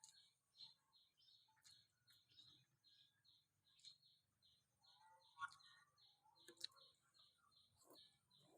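Faint background with a high chirp repeating evenly about four times a second, and a few scattered light clicks and clinks.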